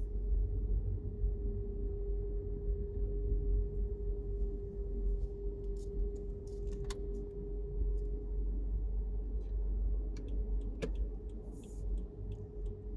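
Car cabin while driving: a steady low engine and road rumble under a constant mid-pitched hum, with scattered faint clicks that come more often near the end.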